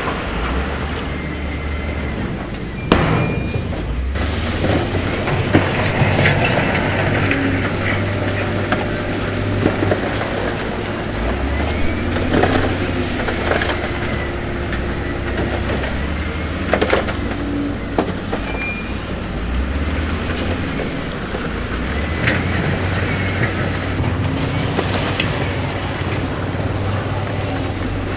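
Heavy diesel earthmoving machinery running steadily, with a low engine drone and several sharp knocks and clanks of stone and metal as the machines work the rock.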